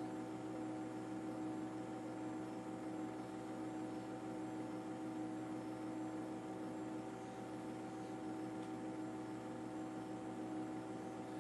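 Steady machine drone with several constant tones over a hiss, unchanging throughout.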